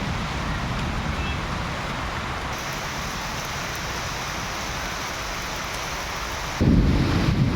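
Steady rain falling, an even hiss. About six and a half seconds in, a low rumble of wind on the microphone starts abruptly and the sound gets louder.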